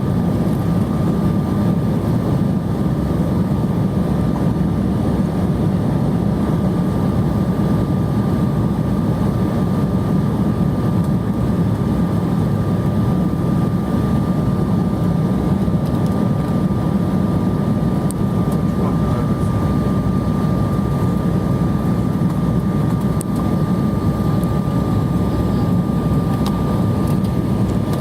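Jet airliner cabin noise heard from a window seat during descent: a steady roar of engines and airflow with a thin steady whine above it.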